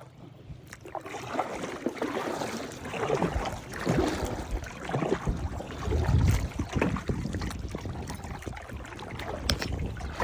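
Kayak paddle strokes in lake water: splashing and dripping that swell and fade about once a second.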